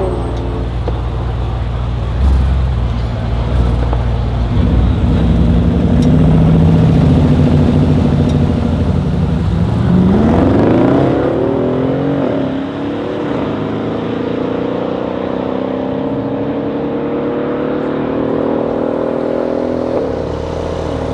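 A Mercedes S63 AMG's biturbo V8 with an Akrapovic exhaust and a Brabus 700 G-Wagon's biturbo V8, held at high revs side by side on the start line. About ten seconds in both launch and accelerate hard away, the pitch climbing steeply, then rising slowly as they pull down the strip, with a gear change near the end.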